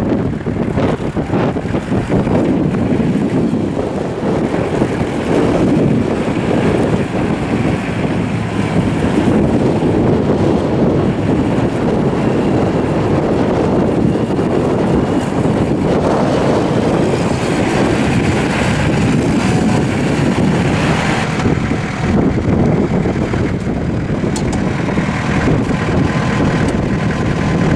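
Kubota M8200 tractor's diesel engine running steadily, with wind noise on the microphone.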